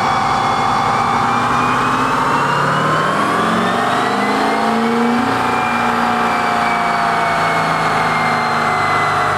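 Truck engine and turbo whine on a chassis dynamometer during a power pull, the pitch climbing slowly for about five seconds, then holding and easing down a little.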